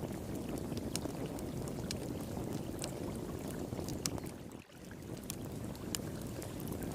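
Wood fire crackling, with sharp irregular pops, over the steady rush of flowing water. The sound dips briefly about four and a half seconds in.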